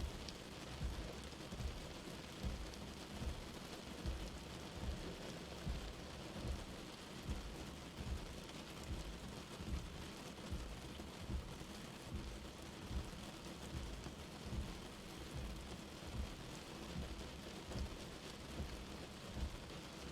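Light rain falling in a steady patter. Soft low thumps repeat under it at an even pace, a little faster than once a second.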